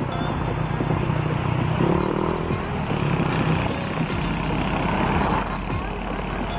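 A Honda Click scooter's single-cylinder engine with an aftermarket exhaust pipe running steadily while riding, with wind noise on the microphone.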